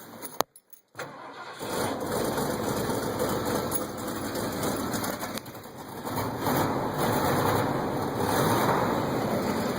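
1977 Ford F150's 351M V8 starting with a click, catching about a second and a half in and then running, dipping briefly near the middle before picking back up. It is a cold start, the first start of the day.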